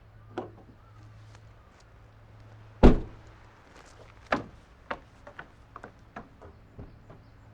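One heavy thump about three seconds in, followed by a string of lighter knocks and clicks, over a low steady hum.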